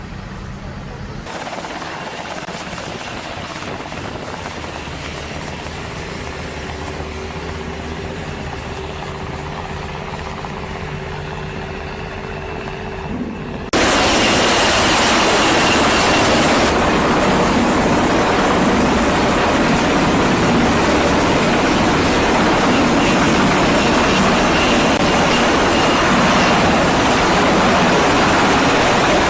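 Steady engine hum under a rushing noise, which turns suddenly much louder about halfway through.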